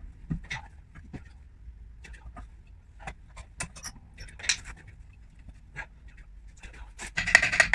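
Scattered clicks and knocks of hand tools at work on a car, then a run of rapid, loud scraping strokes starting about seven seconds in.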